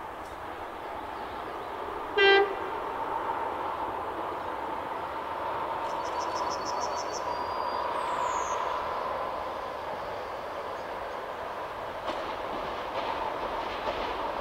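Electric locomotive hauling a passenger train sounds one short horn blast about two seconds in, the loudest sound here. The train's running noise then grows steadily as it approaches.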